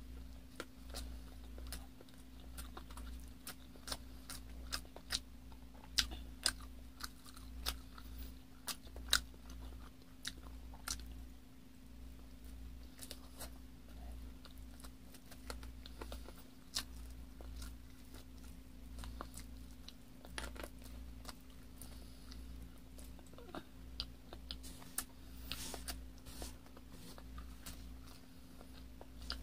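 A person chewing chicken and rice close to the microphone, with many short sharp mouth clicks and smacks spread throughout, over a steady low hum.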